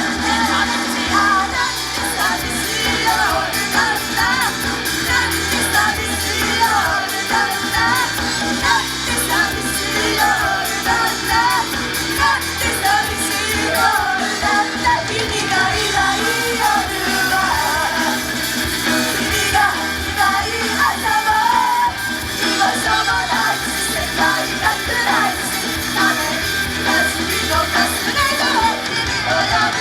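Japanese idol group singing a loud, up-tempo rock-pop song live with a steady beat.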